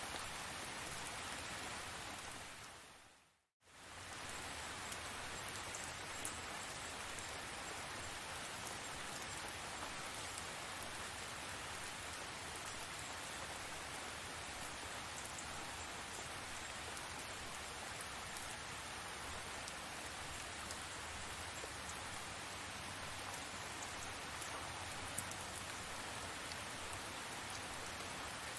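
Steady tropical rain falling, with scattered faint drop ticks. About three and a half seconds in it fades to silence for a moment and fades straight back in.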